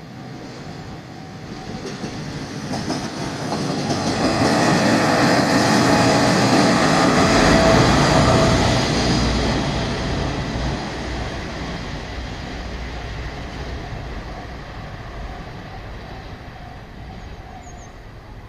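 KiHa 47 diesel railcar passing close by, its engine and wheels on the rails swelling to a peak about five to nine seconds in, then fading away.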